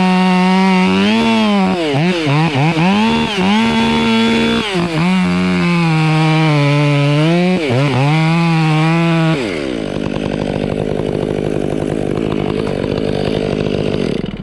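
Gas chainsaw at full throttle cutting wood, its pitch dipping again and again as the chain bogs in the cut. About nine seconds in, the throttle is released and the engine falls away to a lower, rougher running.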